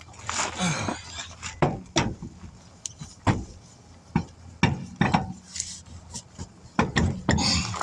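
Irregular clunks, knocks and scrapes of a wheel and tools being handled as a car wheel is mounted back on its hub, with a dozen or so sharp knocks and a few short scraping stretches.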